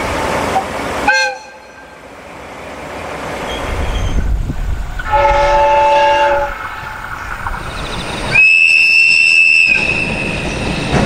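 Japanese trains running past on the rails, with sharp changes from one sound to the next. There are three horn sounds: a short blast about a second in, a lower chord-like horn of several notes for a little over a second in the middle, and a high single-note whistle for about a second near the end.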